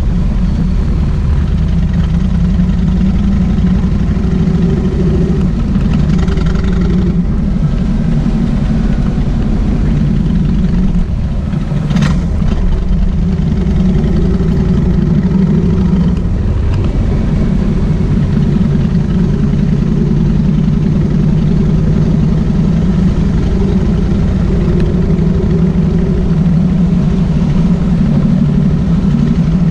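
Kawasaki VN1600 Mean Streak's V-twin engine running steadily, its note swelling and easing, with one sharp click about twelve seconds in.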